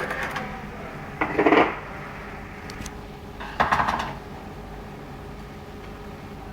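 Small metal engine parts and hand tools clinking and clattering on a work surface: two louder bursts of rattling, about a second in and near the middle, with a few lighter clicks.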